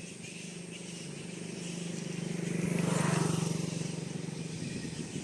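A motor vehicle passing by on the road: a steady engine hum that grows to its loudest about three seconds in, then fades away.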